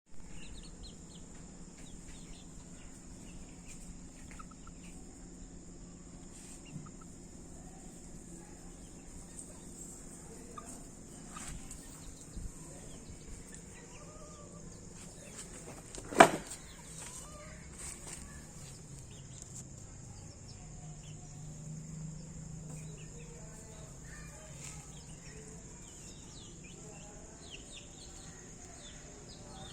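Bantam and Aseel chicks peeping in short, high chirps, over a steady background hum. A single sharp knock about halfway through is the loudest sound.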